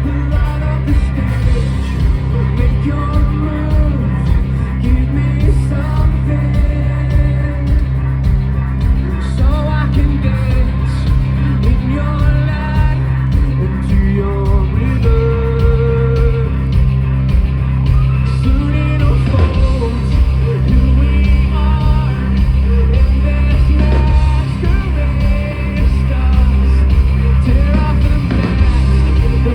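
Live rock band performing with a singer, heavy bass and drums and guitar, heard loud through a concert PA.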